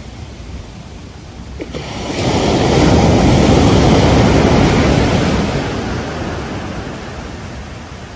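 Ocean waves breaking on the beach: a quiet wash, then about two seconds in a wave breaks and swells into a loud rushing crash that fades slowly away.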